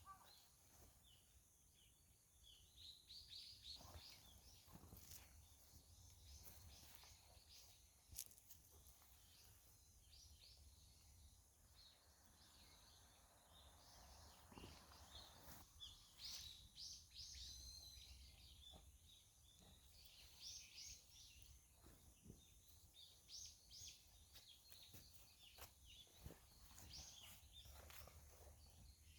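Faint outdoor ambience with small birds calling repeatedly in short high chirps, and a few scattered faint clicks.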